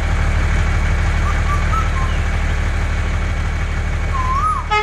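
Engine idling with a low, even chugging rumble, which drops away near the end.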